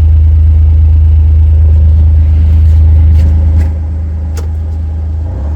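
Vehicle engine running steadily under way, dropping back about three and a half seconds in as the throttle eases, with a few light clatters.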